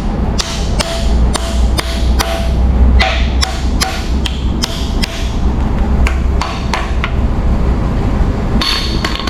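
Hammer striking the MDS sensors on a 6.4L Gen 3 Hemi engine to knock them loose. It is a rapid series of sharp blows, about three a second, that thins out after about seven seconds.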